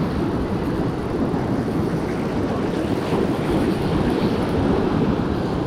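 Wind buffeting the microphone over the sound of beach surf, a steady noise heaviest in the low end.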